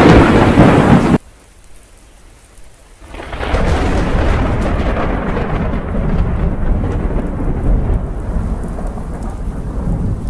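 Thunderstorm: loud rain and thunder that stop abruptly about a second in. After a couple of quiet seconds, thunder rumbling and heavy rain swell up and carry on.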